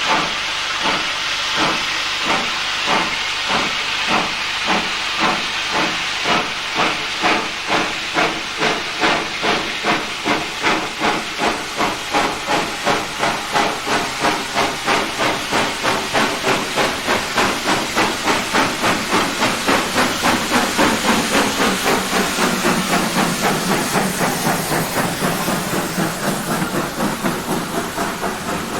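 Steam locomotive working hard, its exhaust chuffs starting at about one a second and quickening steadily to several a second over a constant steam hiss.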